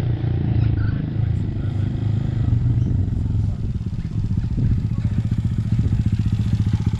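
Honda Grom's small single-cylinder engine running at low revs as the bike rolls in to park, with a fast, even exhaust pulse.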